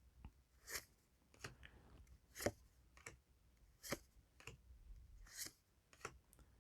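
Faint, irregular snaps and rustles of Yu-Gi-Oh! trading cards being handled and flipped through one by one, about ten in all.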